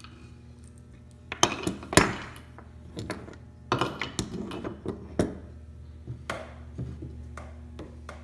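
Metal woodworking tools and grinder jigs clinking and clattering as they are handled and set down on a table, with the loudest knocks about a second and a half and two seconds in. A steady low hum runs underneath.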